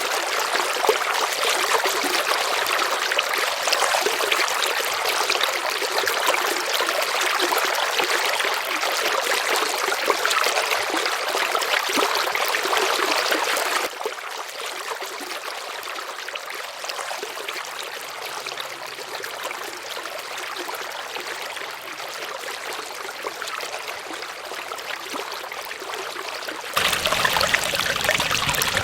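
River water flowing and rushing over stones, a steady noise with no other events. It drops noticeably quieter about halfway through and comes back louder, with more low rumble, near the end.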